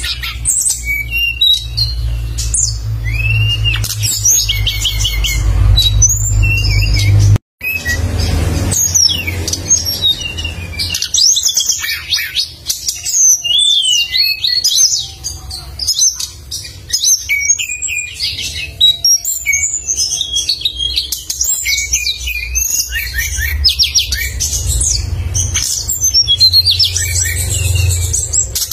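A songbird singing continuously in rapid, sharp, high chirps and trills, over a low rumble. The sound cuts out for a moment about seven seconds in.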